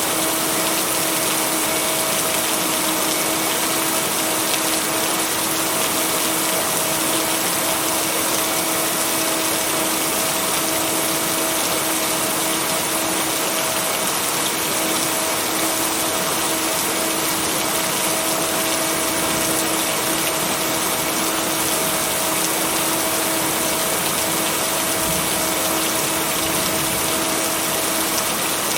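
Steady heavy rain, an even hiss with no break and no thunder, with a steady low hum underneath.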